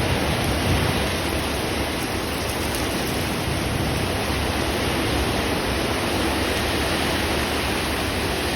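Heavy rain falling in a steady downpour during a thunderstorm, an even hiss with no thunderclap.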